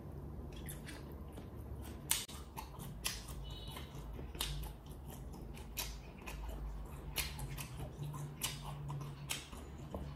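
Close-miked chewing of a mouthful of sliced ham, with wet smacks and clicks at irregular intervals over a low, steady hum.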